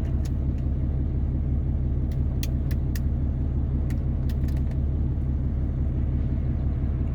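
Pickup truck engine running steadily, heard from inside the cab, with a series of light clicks spread over the first few seconds, like power-window switches being pressed. No window motor is heard with them: the rear windows do not go down.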